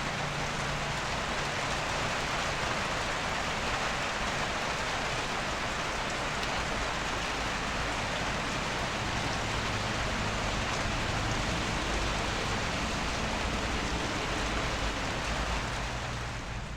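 Heavy rain falling steadily on a bamboo roof, a dense even patter with no breaks.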